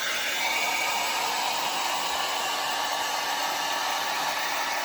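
Handheld hair dryer blowing steadily on its cool setting, a constant rushing hiss with a faint whine.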